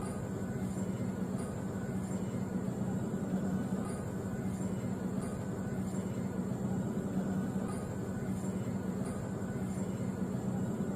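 Steady vehicle engine drone, even in pitch and level.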